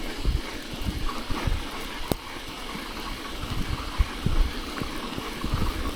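Riding noise from a bicycle on a snowy road: irregular low rumbling of wind buffeting a chest-mounted action camera's microphone over a steady hiss of tyres and blowing snow, with a single sharp click about two seconds in.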